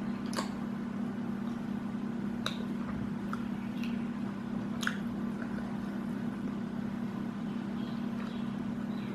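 Close-up eating sounds: a few sharp, wet mouth clicks and squishes of chewing and biting food. A steady low hum runs beneath throughout.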